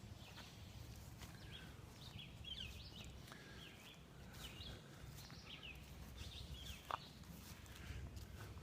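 Faint birds chirping over a low steady outdoor rumble, with one sharp click about seven seconds in.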